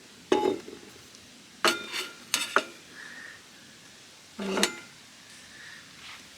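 Dishes or camp cookware clinking and knocking as it is handled: about six short, ringing knocks, a cluster of them a couple of seconds in and a last one near the middle.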